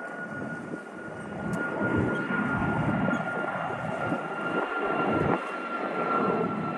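Jet airplane flying over, its engine noise building steadily louder, with a high steady whine that slowly sinks in pitch.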